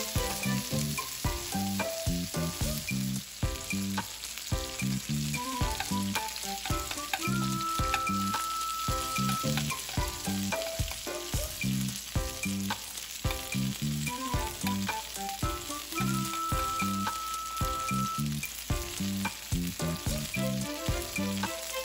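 Lamb chops frying in melted butter in a skillet, sizzling steadily as a spoon bastes them with the butter. Background music with a steady beat plays along.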